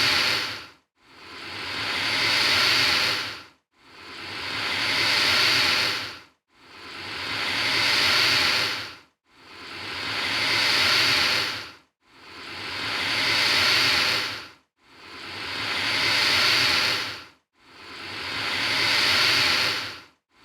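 Alligator hissing again and again: about eight long hisses in a row, each swelling for under three seconds and then cutting off suddenly, with hardly a gap between them. An alligator's hiss is a defensive warning.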